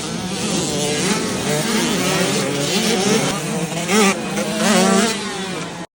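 Motocross dirt bike engines revving and running, with two louder rising revs about four and five seconds in. The sound cuts off suddenly just before the end.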